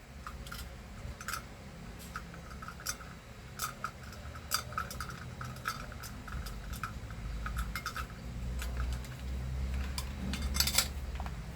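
Small metal motor parts clicking and clinking as they are handled and fitted together while the vacuum cleaner motor is reassembled, a scattered run of light ticks over a low rumble that grows louder about seven seconds in.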